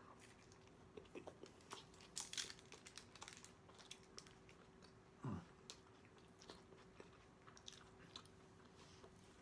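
Faint chewing of a bite of soft tortilla taco, with small wet mouth clicks and smacks scattered through it. A brief low sound that falls in pitch comes about five seconds in.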